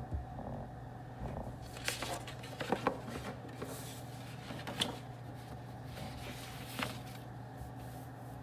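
Quiet room ambience of a study space: a steady low hum with a few light, sharp clicks and taps scattered through it, about five in all.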